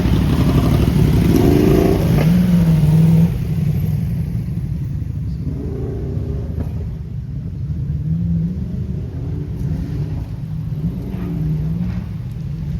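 A car engine running and being revved, its pitch rising and falling. It is loudest for the first three seconds, then drops and carries on with smaller swells in pitch.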